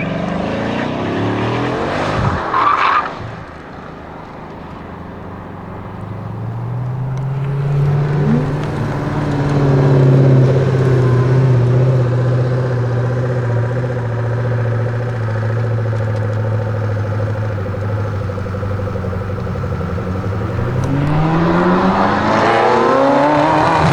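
Straight-piped Ferrari F40 LM's twin-turbo V8 running. There is a brief loud burst of revs about two seconds in, then a steady low engine note through the middle, and the revs climb again near the end.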